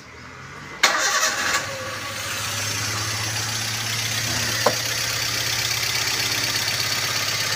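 Toyota Avanza four-cylinder petrol engine started: it catches about a second in, loudest for the first moment, then settles into a steady idle. The engine has a weak ignition coil, the cause of its rough, misfiring running.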